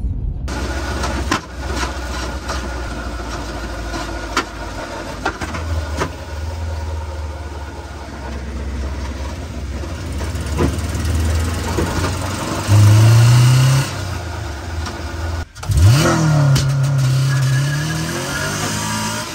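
Honda B18B1 non-VTEC four-cylinder engine in a mid-engine EG Civic hatch, running at low revs, then revving. Near two-thirds through it rises briefly; after a sudden break it climbs fast to high revs and holds there, dipping and climbing again near the end.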